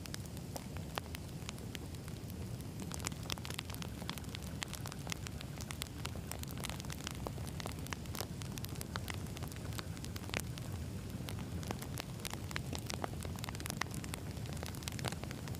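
Wood campfire burning, with frequent small irregular crackles and pops over a steady low rumble of the flames.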